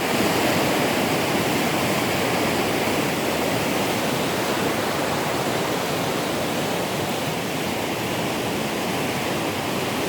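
Water rushing steadily down a creek's falls.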